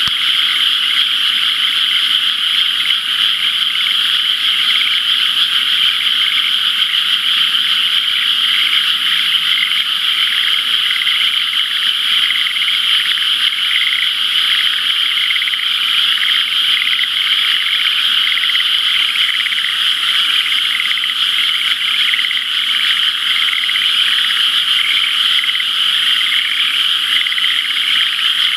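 Large chorus of frogs calling together in rain-flooded rice paddies: a dense, unbroken din of many overlapping pulsed calls.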